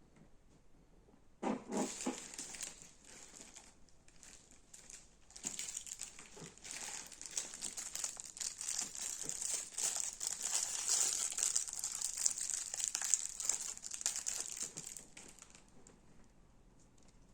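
Crunchy slime being squeezed and worked by hand: a dense run of crisp crackles and pops. It starts sharply about a second and a half in, eases off briefly, builds again and fades out near the end.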